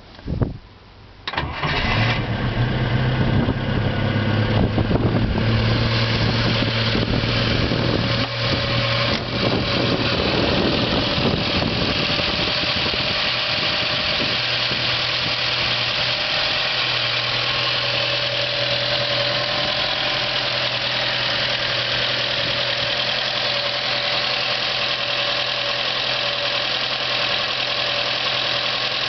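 GAZ-24 Volga's four-cylinder engine starting for the first time after assembly: a brief crank, then the engine catches about a second and a half in. It runs somewhat higher and less evenly at first, then settles into a steady idle from around ten seconds on.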